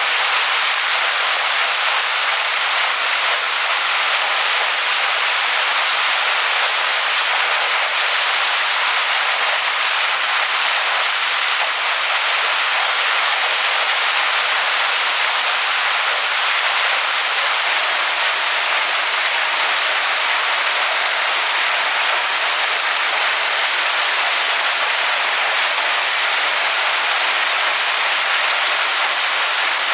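Waterfall pouring onto rocks: a steady, even rush of falling water, bright and hissy with little low rumble.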